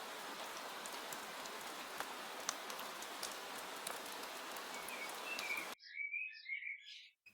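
Soft rain: a faint, even hiss with scattered drip ticks that cuts off suddenly near the end, leaving a short phrase of bird chirping.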